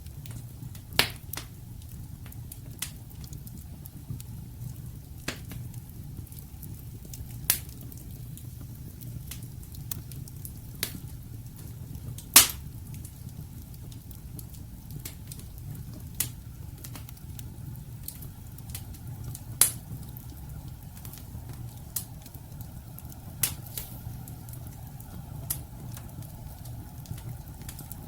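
Wood fire burning in a fireplace: irregular sharp crackles and pops from the logs, one every second or two, over a steady low rumble.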